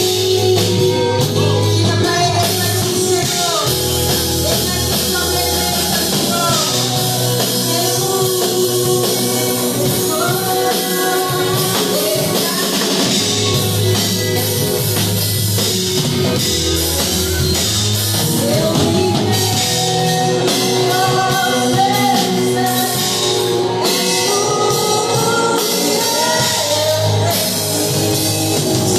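Gospel worship music: singing over a band with drum kit and guitar, playing steadily.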